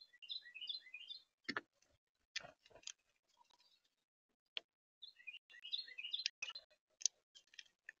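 Two quick runs of short, down-slurred bird notes, one right at the start and one about five seconds in. Sharp clicks and knocks on the feeder come in between, while a male northern cardinal feeds on the seed tray at the camera.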